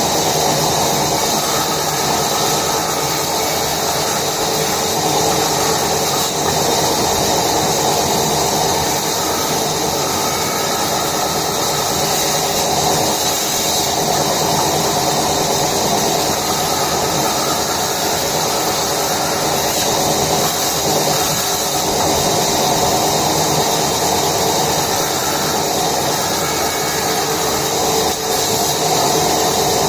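Woodworking machinery running steadily, a constant motor hum under even machine noise with no breaks.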